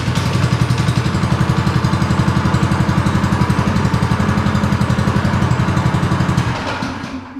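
The mini motorcycle's 6.5 hp single-cylinder general-purpose engine running steadily just after starting, with an even pulsing beat. It is shut off near the end and runs down over about a second.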